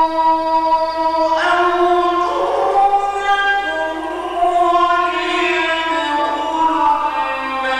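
A male Quran reciter in mujawwad style, holding long ornamented notes that step and glide between pitches.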